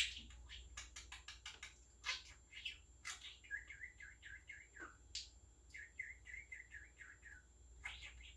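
English budgie chirping: a scatter of short clicks and chirps, then two runs of quick warbling chatter.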